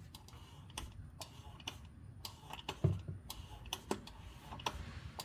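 Light, irregular plastic clicks and taps as a hand-operated gear-oil transfer pump and its hose are handled and fitted, with a dull knock about three seconds in.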